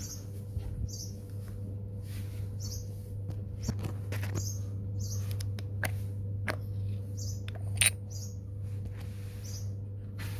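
A short, high chirp repeated evenly, a little under twice a second, in the background over a steady low hum. A few sharp metal clicks and taps come from hand tools working on the fan motor's pin and bearing cap, the loudest near the end.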